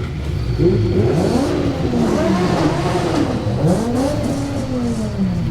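Mercedes-Benz C63 AMG V8 through an aftermarket iPE exhaust, revved several times, its pitch rising and falling in repeated swells.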